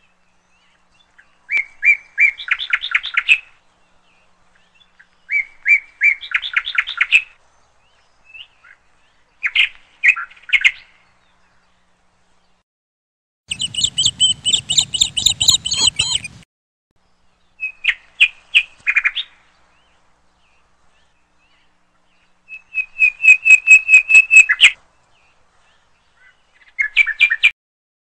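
A songbird singing about seven short phrases of rapid high chirps, each a second or two long, with silence between. The longest and fullest phrase, about three seconds, comes about halfway.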